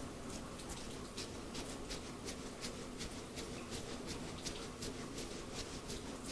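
Close-miked hair and scalp being rubbed in a head massage: a quick, irregular crackle of small crisp scratches, about four or five a second, over a steady hiss of rain.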